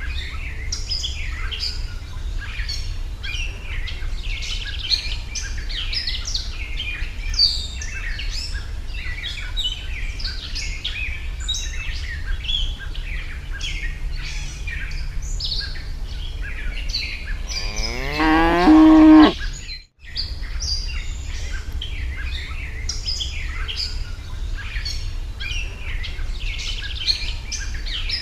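A cow moos once about two-thirds of the way in, a call of about a second and a half that rises in pitch and then holds. Small birds chirp constantly throughout over a steady low hum. The sound drops out for a moment just after the moo.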